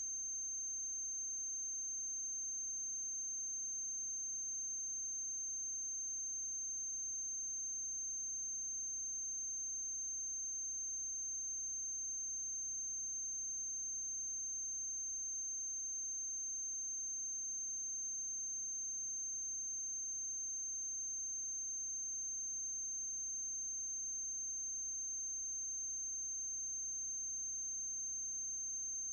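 Steady electrical noise on the track of a silent film: a constant high-pitched whine over a low mains hum, with no other sound and no change throughout.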